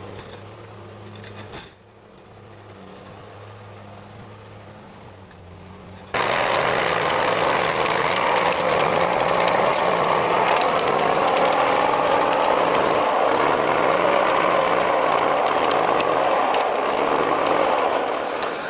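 Heavy forestry machinery working: first a steady engine hum, then, after an abrupt cut about six seconds in, a much louder grinding noise full of dense crackling.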